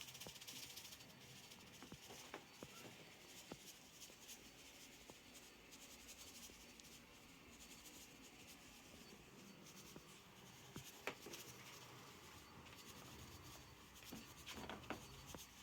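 Faint scratchy rustling with a few light taps, near silence overall: carpet freshener powder being shaken out of its canister onto carpet.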